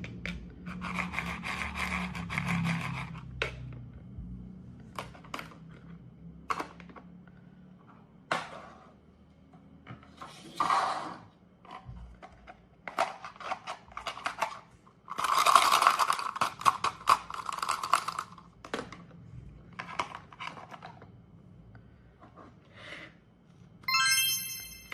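Plastic toy fruit being cut with a toy knife: the Velcro halves tear apart in rasping stretches, between light plastic taps and knocks. A quick run of clicks comes near the end.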